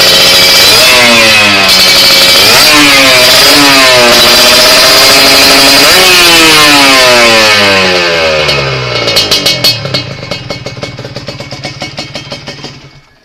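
Kawasaki Ninja 150's two-stroke single-cylinder engine through an aftermarket galvanised exhaust, revved up and down several times. From about eight seconds in it drops off and breaks into separate, slowing putts that die away near the end.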